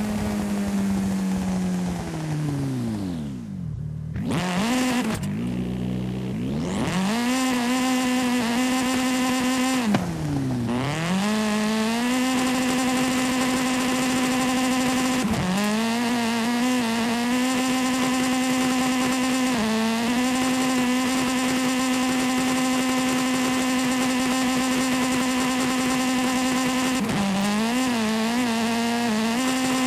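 Video game car engine sound. It holds a steady pitch, drops sharply and climbs back twice in the first eleven seconds as the car slows and speeds up again, dips briefly a couple of times, and wavers near the end.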